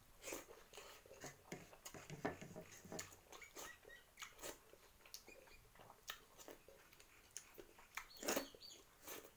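A person eating by hand close to the microphone: chewing, with irregular wet mouth clicks and smacks. The loudest smack comes about eight seconds in.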